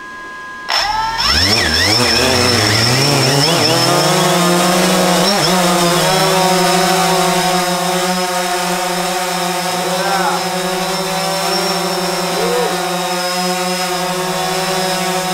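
DJI Phantom 4 Pro Obsidian quadcopter's four motors and propellers starting up about a second in. The whine rises in pitch over several seconds, then settles into a steady buzz.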